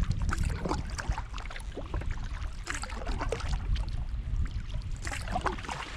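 Kayak paddle strokes in river water: splashes and drips from the blades, with two fuller splashing strokes about halfway through and near the end, over a steady low rumble.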